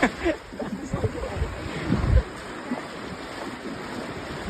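Surf washing on a beach with wind on the microphone, as a steady rushing noise. In the first two seconds there are a few low thumps and brief voice sounds.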